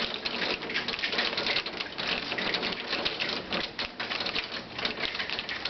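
Rain pattering in a dense, uneven run of small ticks as a hailstorm dies back to rain.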